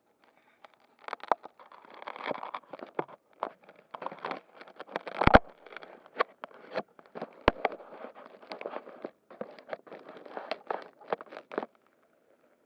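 Handling noise close to the microphone: irregular clicks, scrapes and rustles, the loudest about halfway through, stopping about a second before the end.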